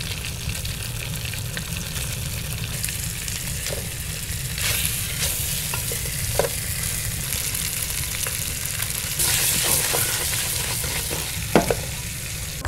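Fish pieces sizzling as they fry in an aluminium pot, a steady hiss that swells twice. A wooden spoon stirring them knocks lightly against the pot a few times.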